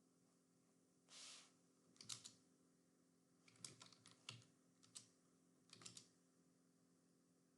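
Faint computer keyboard typing in short bursts of keystrokes, with a soft rush about a second in, over a low steady electrical hum.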